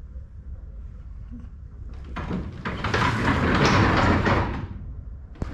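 A truck's cargo door sliding, with a loud metallic rattling for about two and a half seconds starting about two seconds in. It starts rattling again just before the end.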